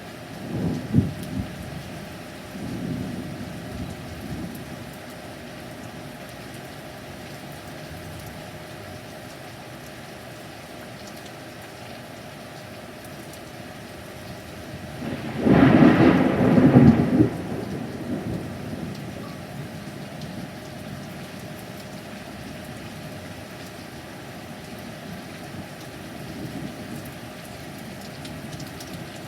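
Steady heavy rain with rolling thunder. The loudest clap is about halfway through and lasts a couple of seconds. A shorter clap comes about a second in, with fainter rumbles a few seconds in and near the end.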